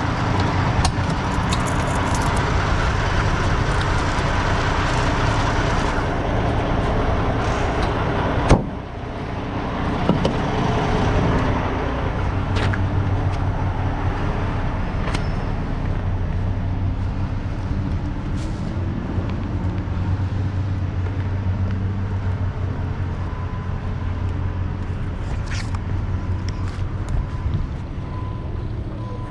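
Tractor-trailer's diesel engine running steadily with a low hum, and one sharp clack about eight and a half seconds in.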